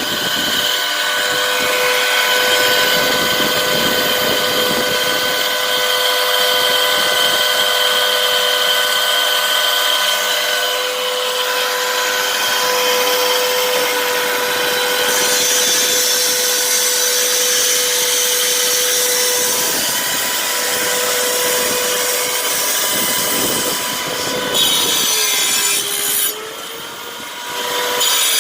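A power cutting tool, of the angle-grinder kind, running steadily and cutting brick with a high whine and a gritty hiss. Near the end its pitch wavers and dips as the load changes.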